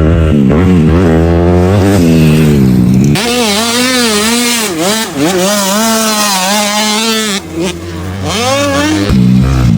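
Honda 250cc four-stroke motocross bike engine being ridden at full throttle, its pitch rising and falling over and over as the rider rolls on and off the throttle and shifts. About three seconds in the deep low end drops out abruptly and a hiss joins, until the fuller sound returns near the end.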